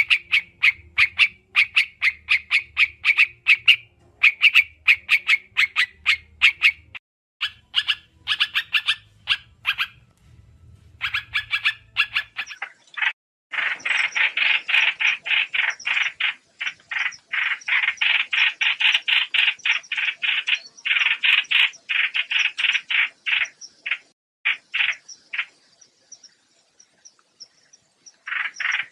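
Trao trảo bird calls used as a trapping lure: fast runs of short, sharp repeated notes, several a second, broken by brief pauses. The runs turn denser and louder about halfway through and thin out near the end.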